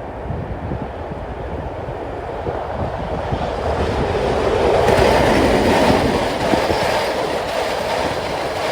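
ST44 (Soviet-built M62-type) diesel locomotive passing with its train, its two-stroke V12 diesel engine growing louder to a peak about halfway through, with wheels clattering over the rails as the train rolls by.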